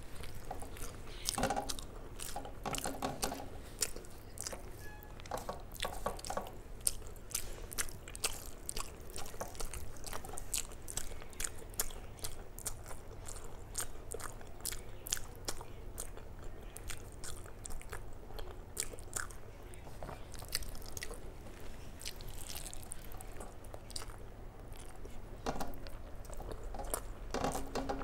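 A person chewing and eating a rice-and-curry meal up close: irregular sharp mouth clicks and smacks, with a few brief denser bursts of eating noise.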